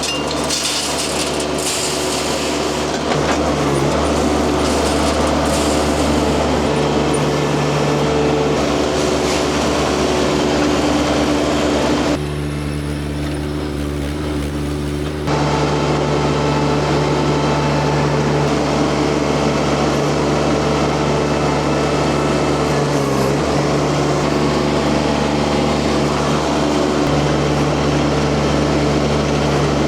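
Tracked mini skid steer's engine running steadily at working speed. It drops quieter and duller for about three seconds midway, then comes back to full level.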